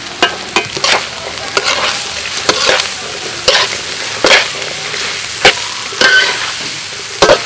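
Fried rice sizzling in a hot pan as it is stir-fried with carrot and yellow corn, the spatula knocking and scraping against the pan about once or twice a second.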